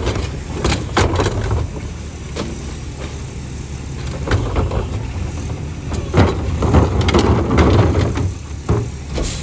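Rear-loader garbage truck's diesel engine running with a steady low rumble, with scattered knocks and clatters of metal and bins, busiest in the second half.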